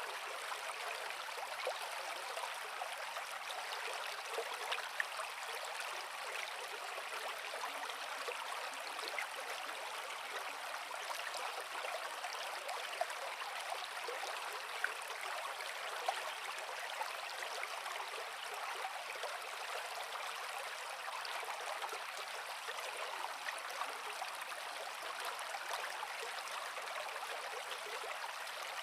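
Creek water flowing over rocks: a steady splashing, gurgling rush with a hiss from little splashes, even in level throughout.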